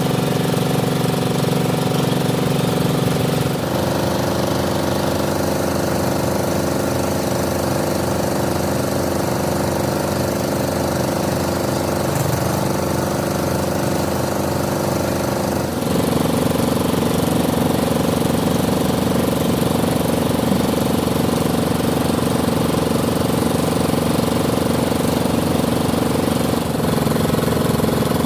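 A machine-shop lathe running steadily, its drone changing pitch abruptly a few times.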